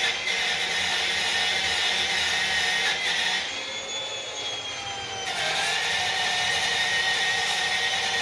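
Power tool fitted with a steel wire brush scrubbing a stone wall, its motor whining steadily; for a couple of seconds in the middle the whine drops lower and quieter, then comes back up.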